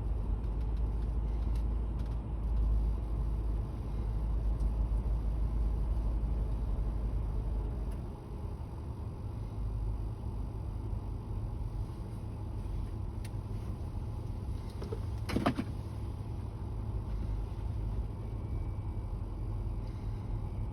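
Fire ladder truck's engine running steadily to drive the aerial ladder's hydraulics while the ladder is lowered slowly. The low rumble eases a little about eight seconds in, and there is one brief sharp sound about fifteen seconds in.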